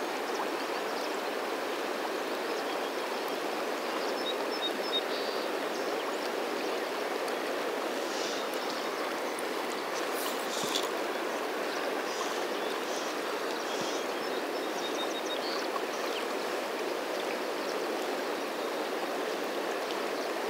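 Steady rush of a large, fast-flowing river current, with a few faint, short high-pitched peeps about four seconds in and again near fourteen seconds.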